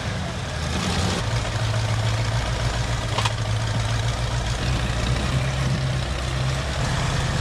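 A supercharged 302 Ford V8 in an off-road truck running steadily at low revs, with one short sharp click about three seconds in.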